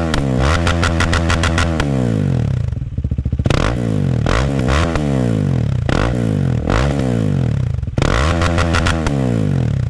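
KTM Duke 390's single-cylinder engine through an Akrapovic exhaust with the dB-killer removed, revving up again and again, each time rising in pitch and then falling back. The level dips briefly about three seconds in as the throttle closes.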